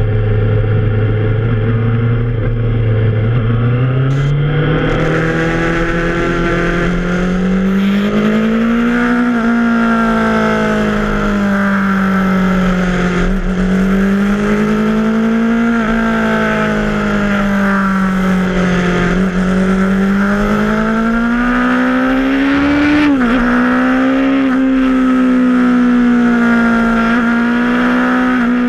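Yamaha FZ6R's 600 cc inline-four engine under way. It holds a low, steady note for the first few seconds, then climbs and keeps rising and falling as the throttle is worked through a run of bends. Wind rush grows as the speed picks up.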